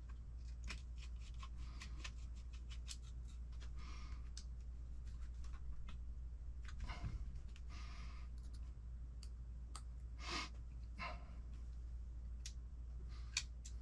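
Scattered light clicks and brief rustles of small screws, parts and hand tools being handled during RC kit assembly, over a steady low hum.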